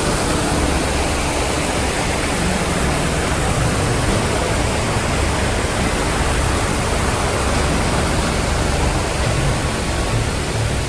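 Rushing water of a mountain stream, a steady, even rush with no breaks.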